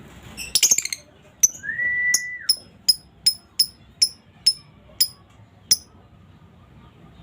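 Female lovebird calling: a quick burst of chatter, a steady whistled note lasting about a second, then a run of about ten short, sharp, high-pitched chirps, two to three a second.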